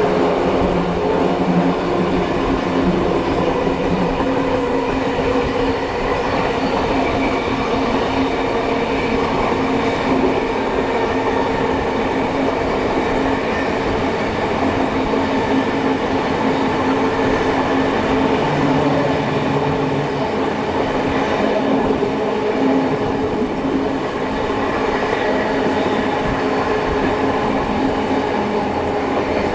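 Steady running noise heard from on board a steam-hauled heritage passenger train: carriage wheels on the rails and a continuous rumble with a low, steady hum.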